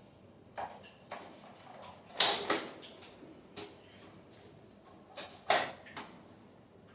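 A series of irregular clicks and knocks, loudest in two quick clusters, about two seconds in and again near five and a half seconds.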